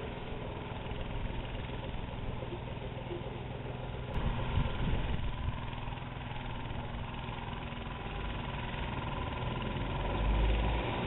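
Echizen Railway electric train pulling away from a station, its motors and wheels running steadily, with a low rumble swelling briefly near the end.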